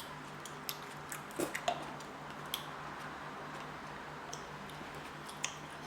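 Quiet eating sounds from rice cakes being eaten: a few faint, scattered clicks and mouth noises about a second apart, over a steady low room hum.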